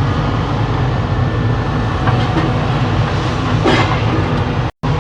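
Excavator diesel engine running steadily on a demolition site, with a couple of short clatters of rubble being shifted around the middle. The sound cuts out for a moment near the end.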